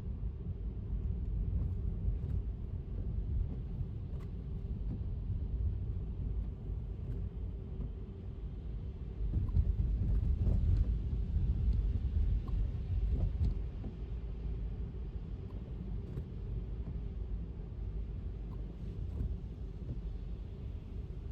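Electric car driving on wet city streets: a steady low rumble of tyre and road noise with a faint constant hum, swelling louder for about four seconds in the middle, and scattered light ticks above it.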